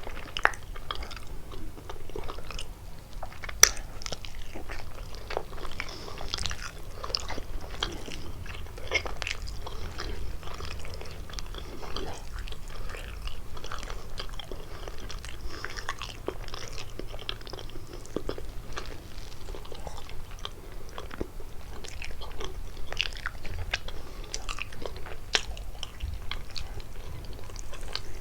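Close-miked chewing and biting of kalaj pastry with walnut and cheese filling: irregular wet smacks and crunchy crackles, with one sharp crunch a few seconds in.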